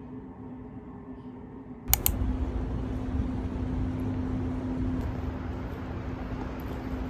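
A sharp double click about two seconds in, then the steady low rumble of a vehicle in motion over a constant hum.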